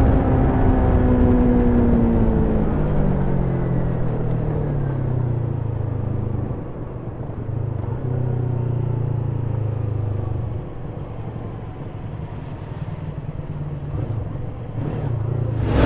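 Stock Yamaha YZF-R3 321 cc parallel-twin engine with its revs falling as the throttle is rolled off over the first few seconds, then settling to a steady low-rev note.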